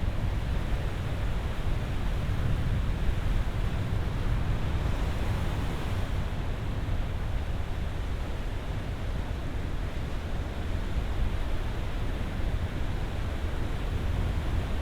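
Ocean surf: a steady, deep rushing of waves breaking and washing, with a slight swell of hiss about five seconds in.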